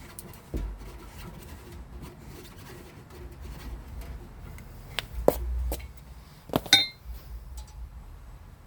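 Metal tools clinking and tapping: a cluster of sharp metallic clicks about two-thirds of the way in, the last one ringing briefly, over low handling noise.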